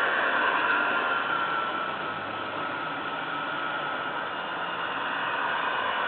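Garden-scale model trains running on the track: a steady whirring hiss of motors, gears and wheels, with a faint whine that drops a little in pitch over the first two seconds.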